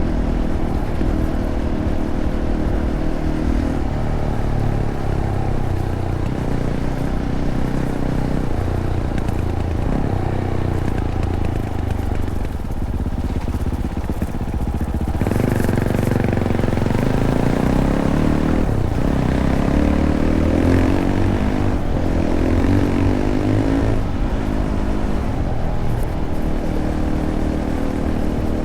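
Fantic Caballero 500's single-cylinder engine running through its stock Arrow exhaust while riding a trail. The engine note falls and rises with the throttle and gear changes: it eases off a little before halfway, then climbs in pitch several times in the second half.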